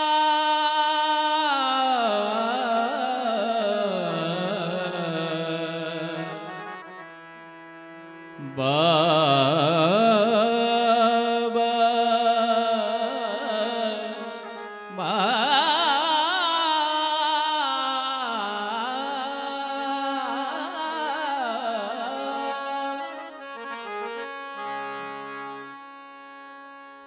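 Instrumental interlude of a Marathi abhang: a harmonium plays an ornamented melody in three phrases, each swelling in and then fading away.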